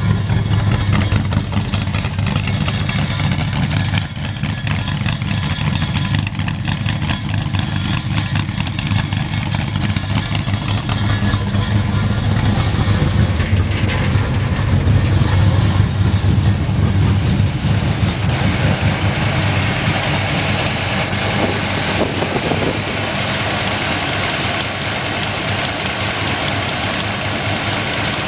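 Ford Ranchero's engine idling steadily on the choke, cold but running smoothly. From about two-thirds of the way through, a steady high hiss joins the low engine hum.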